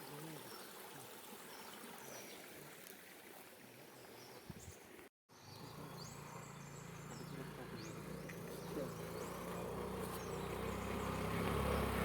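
Faint outdoor background with a few small birds chirping, broken by an edit about five seconds in. After it a vehicle engine hums low and steady, growing louder as it approaches, with birds still chirping over it.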